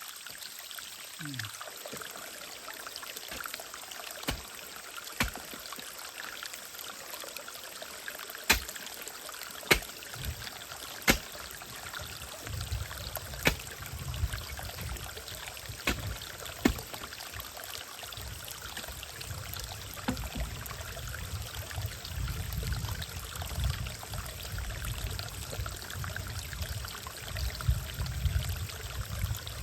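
A digging tool striking hard, stony ground: a string of sharp chops a second or two apart, over a steady rushing background. From about twelve seconds in, a low rumble joins.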